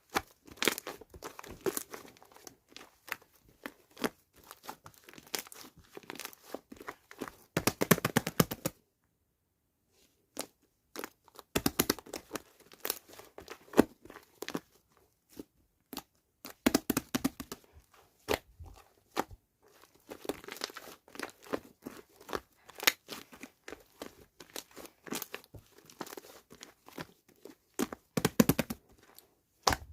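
Crinkling and crunching handling sounds: dense runs of small crackles and clicks, broken by brief pauses.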